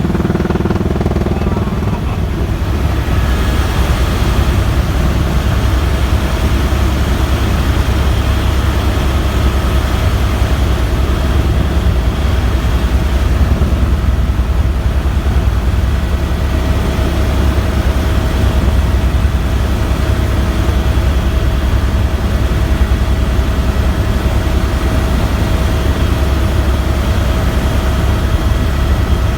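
Helicopter in flight, heard from on board: a fast, steady rotor beat under a constant whine.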